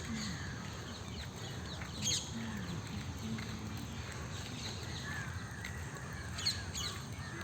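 Birds chirping in short high calls, the loudest about two seconds in and again near six and a half seconds, over a steady low outdoor rumble with faint distant voices.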